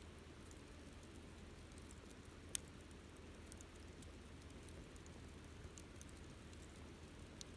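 Wood campfire crackling quietly: scattered soft ticks and pops over a faint steady background, with one sharp pop about two and a half seconds in.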